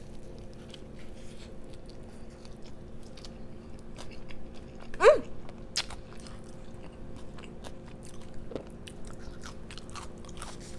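Close-up chewing and biting of a fried chicken sandwich: crunches and wet mouth clicks over a steady low electrical hum. A brief, loud squeak about five seconds in stands out above the chewing.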